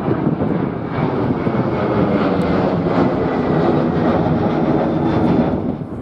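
Jet airliner's engines running loud as it passes close by, with a faint steady whine over the noise, easing off near the end; wind buffets the microphone.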